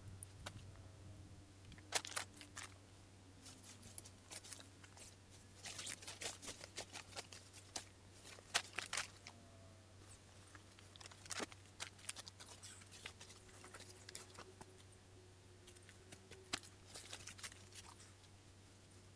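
Irregular sharp clicks and crackles, some in quick clusters and others single, over a steady low hum.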